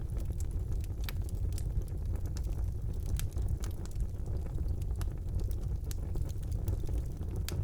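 Wood fire burning in a fireplace: a steady low rumble of flame with irregular sharp crackles and pops of burning logs.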